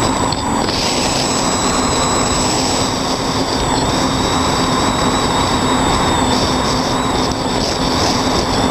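Quadcopter's electric motors and propellers running steadily, a constant hum with a high whine, heard from the camera mounted on it.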